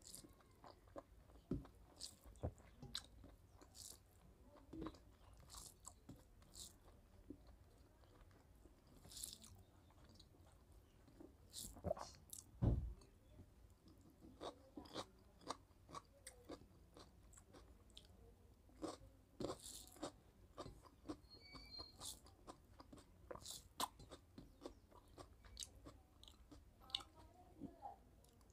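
Close-miked eating sounds: a person chewing and smacking mouthfuls of rice and curry eaten by hand, with crunches and many short, sharp clicks of the mouth. One louder thump comes about twelve seconds in.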